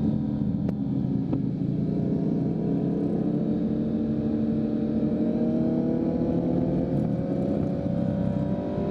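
2023 Kawasaki Z900's inline-four through a full Leo Vince aftermarket exhaust, running steadily while riding, its note rising gradually through the second half.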